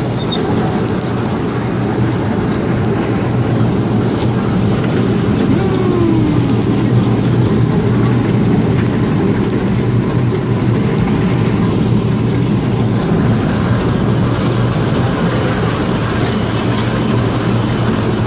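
Small amusement-park kiddie train running along its track, heard from aboard: a steady motor hum under the continuous rumble and rattle of the cars.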